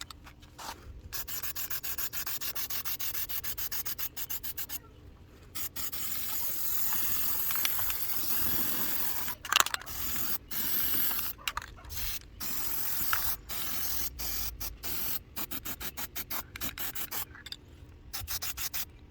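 Aerosol spray-paint can hissing in long bursts broken by many brief gaps, with a short pause about five seconds in and another near the end.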